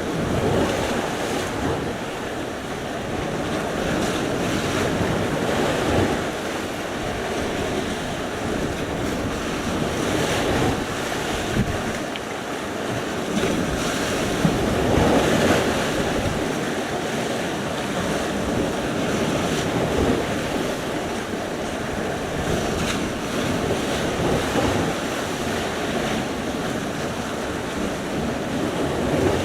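Sea surf: waves breaking and washing on the shore in a steady roar that swells and eases every few seconds, with wind buffeting the microphone.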